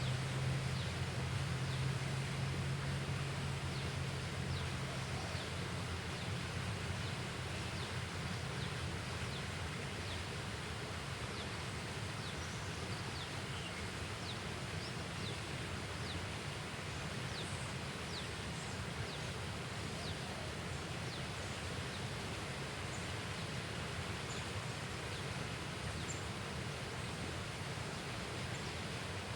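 Steady outdoor background noise with many short, high, falling chirps repeating irregularly, and a low hum that fades after the first few seconds.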